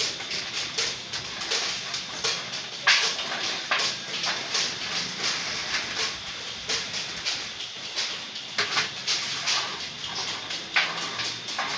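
Irregular sharp taps and knocks, about one or two a second, from hand sheet-metal work.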